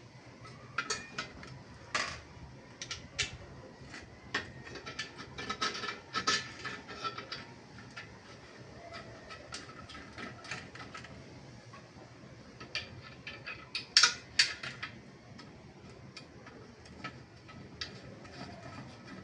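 Irregular light metallic clicks and clinks, with a cluster of louder knocks about two-thirds of the way through.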